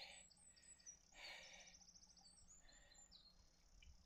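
Faint songbird chirps and trills over quiet outdoor background, with a brief soft noise about a second in.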